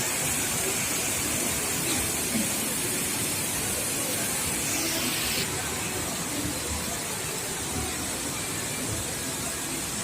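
Steady hissing indoor ambience with faint, indistinct voices in the background.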